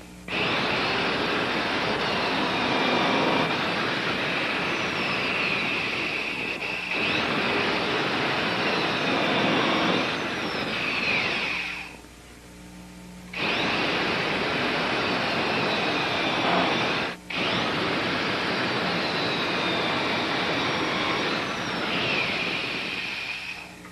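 Electric drill boring holes for canoe end ribs, running in long stretches with a whine that falls and rises in pitch. It stops for about a second halfway through, cuts out briefly a little later, and stops near the end.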